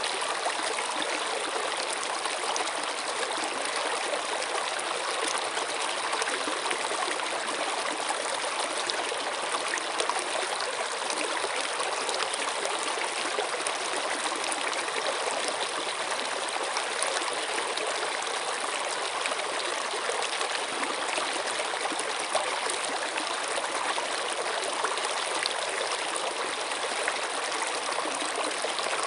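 Running water flowing steadily, a continuous rushing hiss with small splashes and trickles through it.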